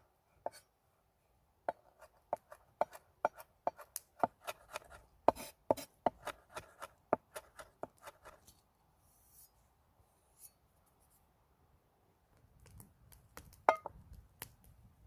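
A knife chopping vegetables, in a run of sharp separate strokes that quickens to about three a second. After a pause, a few more strokes come near the end.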